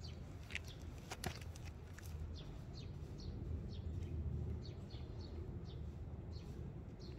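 Faint chirps of small birds over a steady low outdoor hum, with a light tap about a second in.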